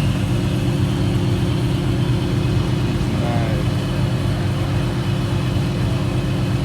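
A car engine idling steadily with a deep, even rumble.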